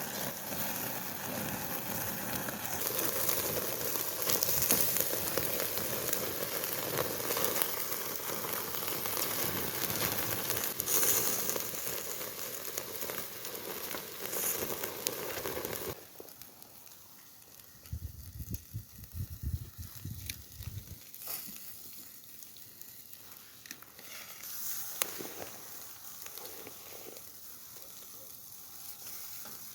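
Chicken steak sizzling over a campfire, with crackling and popping. About two-thirds of the way through it drops abruptly to a quieter sizzle with scattered pops and a brief low rumble.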